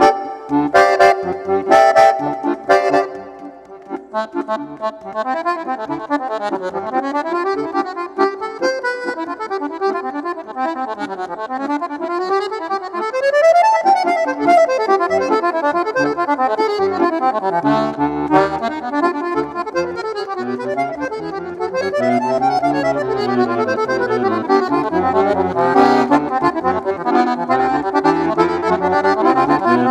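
Accordion (sanfona) playing. It opens with a few short, detached chords, then moves into flowing melodic runs, and low bass notes join about halfway through.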